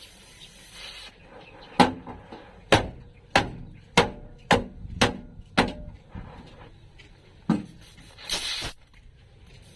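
A hammer striking the car's sheet-metal floor pan about eight times, mostly about half a second apart, each blow ringing briefly. A short scraping rasp follows near the end.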